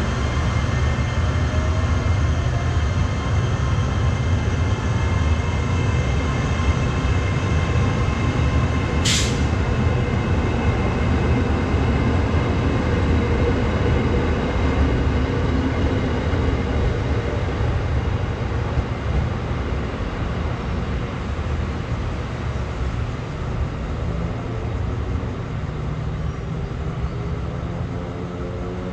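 Train running at a station: a steady low rumble with faint steady tones above it, and one short sharp hiss about nine seconds in. The sound slowly fades over the last third.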